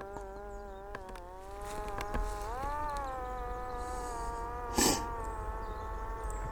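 Parrot Disco fixed-wing drone's electric motor and propeller buzzing steadily in flight, its pitch rising and falling back once about two and a half seconds in. A short, loud scuff of noise comes near five seconds in.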